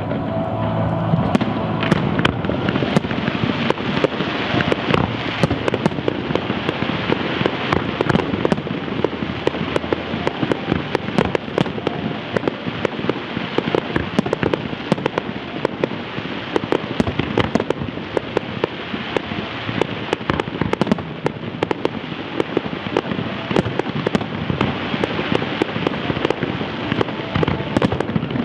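Aerial fireworks display: a dense barrage of rapid sharp bangs over a steady crackling wash.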